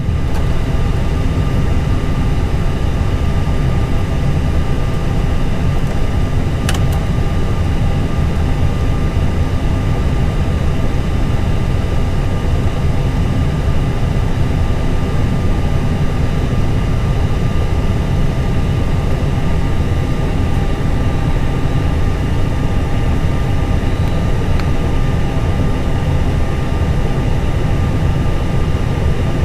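Steady low rumble and hum in an Airbus A320 cockpit while its number 2 engine runs up through start, with a few steady whine tones over it. A single sharp click about a quarter of the way in.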